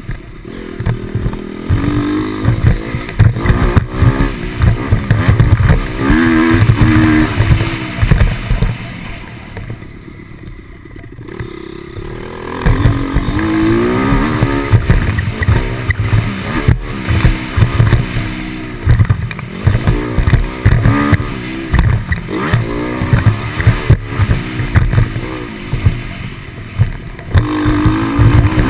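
Motocross bike engine revving up and down again and again through gear changes, easing off briefly about ten seconds in, with heavy wind buffeting on the microphone.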